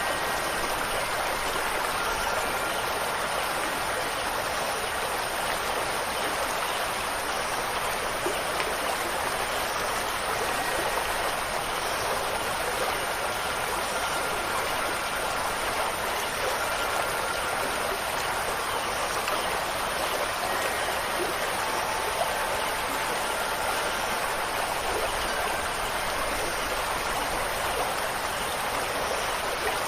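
Steady rushing water of a stream, an even hiss with no breaks. A few faint, held wind-chime tones come and go over it.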